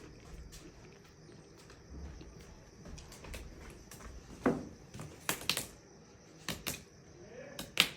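Scattered short, sharp clicks and knocks, a few louder ones in the second half, over a faint steady hiss.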